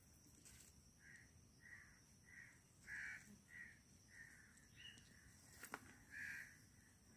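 A bird calling repeatedly: a faint, steady series of short calls, a little under two a second, with a single sharp click about two-thirds of the way through.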